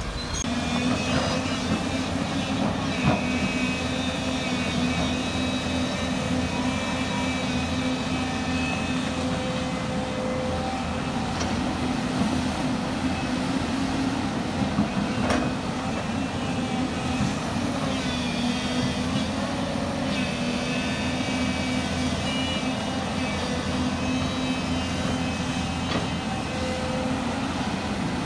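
Heavy diesel earthmoving machinery running steadily, with a few sharp knocks.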